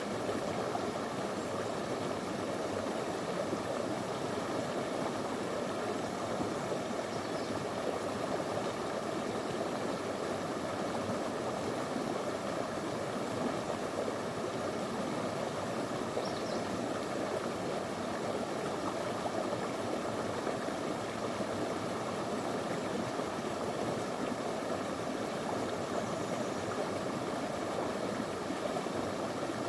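Small stream flowing over stones: a steady, even rush of water.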